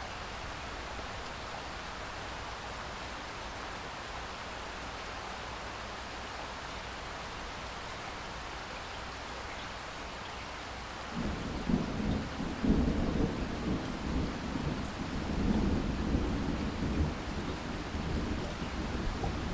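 Steady rain falling; about eleven seconds in, a long rolling rumble of thunder starts and keeps swelling and fading over the rain.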